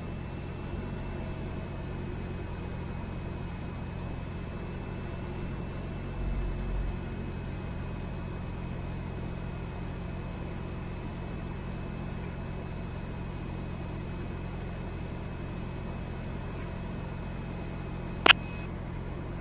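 Cessna 172R's four-cylinder Lycoming engine and propeller droning steadily in the cabin at reduced power on final approach. A single sharp click comes near the end.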